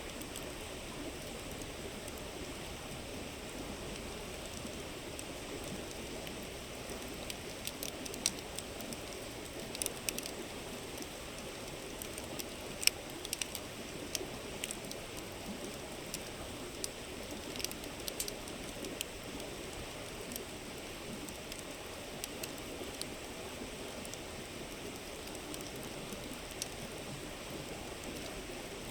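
Steady rush of a flowing river with a wood campfire crackling over it: scattered sharp pops and snaps, thickest in the middle stretch, with one louder pop about halfway through.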